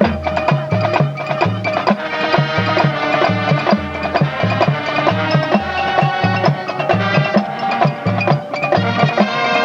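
High school marching band playing, with a steady beat of low drum or bass hits under layered held notes.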